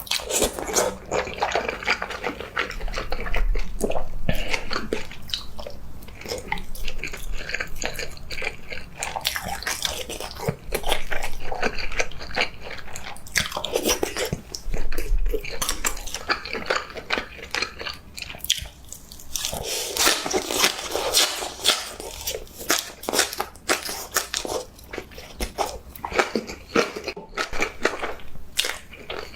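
Eating crunchy food close to the microphone: a dense run of crunching bites and chewing clicks that keeps going, with a couple of softer, smoother stretches in between.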